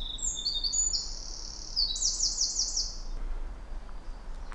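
Eurasian wren singing: a fast, high run of short notes at shifting pitches that ends in a rapid trill and stops about three seconds in.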